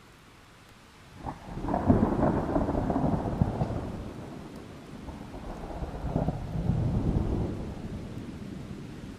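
Thunder: a crack about a second in breaks into a long rolling rumble, which swells a second time past the middle and then dies away. Steady rain runs underneath throughout.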